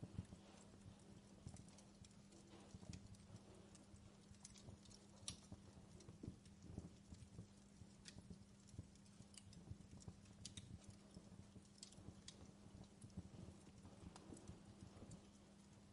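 Faint fireplace crackling: irregular sharp pops and snaps at an uneven pace, over a steady low hum.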